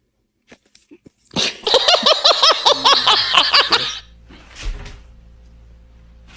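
High-pitched laughing in a quick run of about nine rising-and-falling bursts, cutting off after a couple of seconds, followed by a soft knock.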